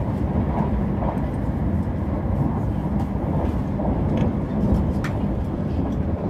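Passenger train running at speed, heard from inside the carriage: a steady low rumble of the ride on the track.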